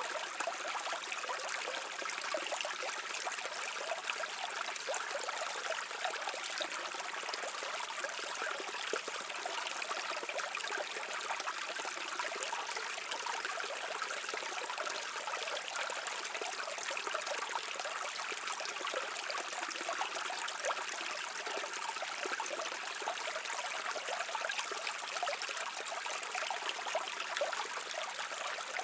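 A shallow stream flowing and trickling steadily over rocks, a continuous even babble of water.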